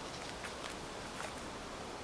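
Footsteps crunching softly through dry fallen leaves at a slow walking pace, a few light crunches over a steady outdoor hiss.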